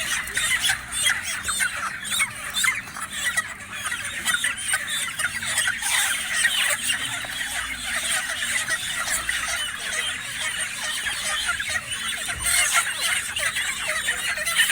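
A large flock of broiler chickens squawking and clucking all at once as they are unloaded from a truck, many overlapping calls without a break, with scattered knocks.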